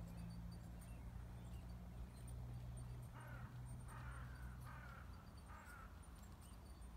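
A bird calling four times in a row, about three-quarters of a second apart, each short call falling slightly in pitch, over a steady low hum.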